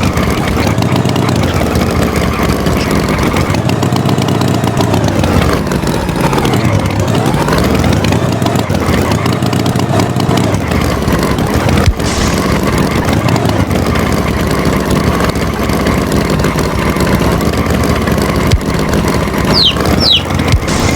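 Tractor engine running and revving, its pitch rising and falling again and again, with a brief break about halfway through. Two short, high, falling chirps come near the end.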